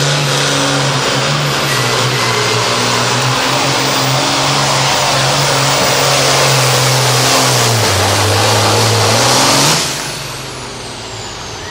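Hot farm pulling tractor's engine running at full throttle under load. About eight seconds in it pulls down lower in pitch, bogging, then swells briefly before the throttle is cut suddenly near the ten-second mark. A thin high whine falls away afterward.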